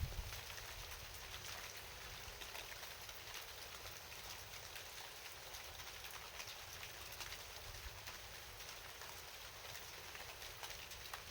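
Steady rain falling, with many small raindrop taps over an even hiss.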